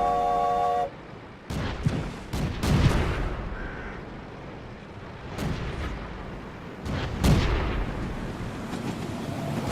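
Irregular heavy knocks and thuds from a vehicle's wheels over a low rumble, several close together early on and more spaced out later. Music cuts off about a second in.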